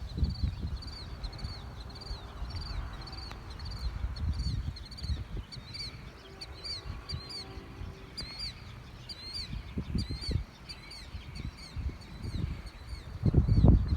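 A bird chirping over and over in a quick run of short, high, arched notes, about three or four a second, with low gusts of wind noise on the microphone.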